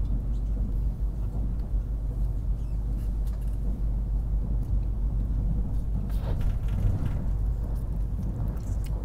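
Steady low rumble of a KTX high-speed train running, heard inside the passenger car, with a few faint clicks about six seconds in.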